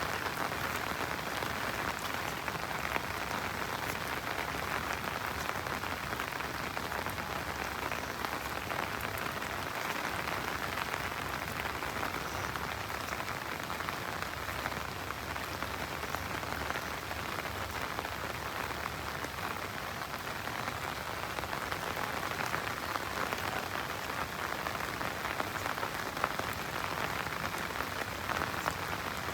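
Steady rain falling on surfaces, an even hiss with many small drop ticks.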